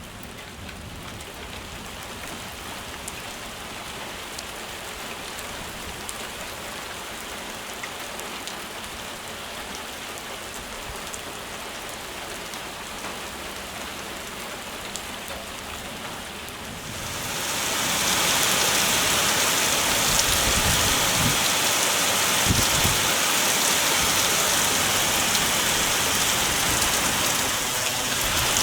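Heavy rain falling with a steady hiss, which turns abruptly much louder and brighter about two-thirds of the way through and stays loud, with a few low thuds.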